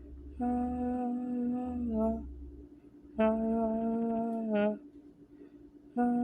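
A person humming long held notes on one pitch, each dipping down at the end: two full notes, and a third starting near the end.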